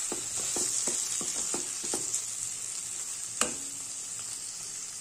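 Onion flower stalks, tomato and spice paste sizzling in oil in a wok as the masala is fried down, with a spatula stirring and scraping the pan in quick strokes, about four a second, for the first two seconds. A single sharp knock with a short ring a little past three seconds in.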